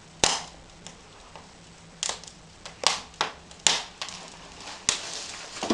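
Wood fire crackling in a brick fireplace, with sharp irregular pops from the burning firewood, about seven in all.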